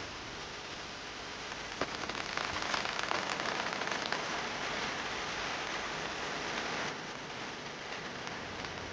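Steady rain falling, with individual drops striking sharply here and there. The rain grows louder about two seconds in and eases back about seven seconds in.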